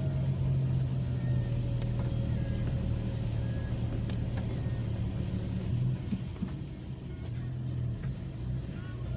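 A car driving, its engine and road noise making a steady low hum that eases off about six seconds in.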